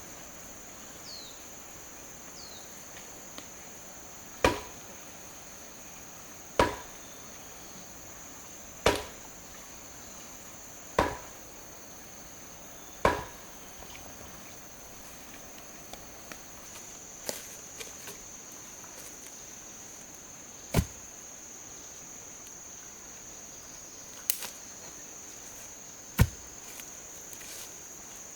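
Chopping: sharp single strikes of a tool, evenly about every two seconds at first, then fewer and more scattered, over a steady high insect buzz.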